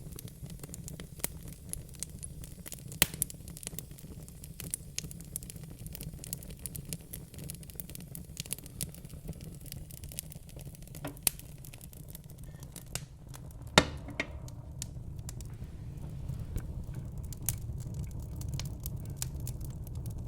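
Wood fire crackling in a fireplace: irregular small pops and snaps over a low steady rumble of the flames, with two sharper pops about three seconds in and near the middle.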